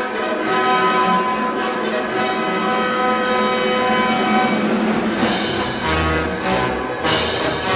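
Orchestral music with brass and strings playing sustained chords, with low drum beats coming in near the end.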